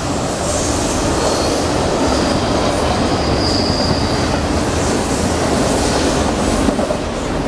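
A train rolling past: a steady rumble and rattle of wheels on the rails, with a faint high wheel squeal in the first half.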